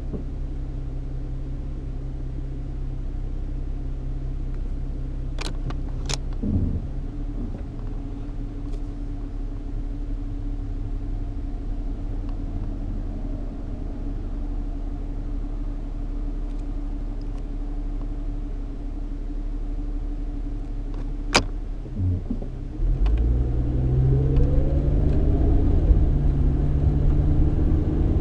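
Cabin sound of a Mustang with the 3.8-litre V6 and automatic transmission: a steady engine hum, broken by a few sharp clicks. About 23 seconds in the engine gets louder and its pitch rises as it speeds up.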